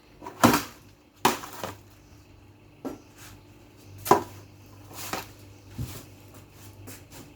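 Household items knocking and clattering as they are handled, about six separate sharp knocks, the loudest two in the first second and a half, over a faint steady hum.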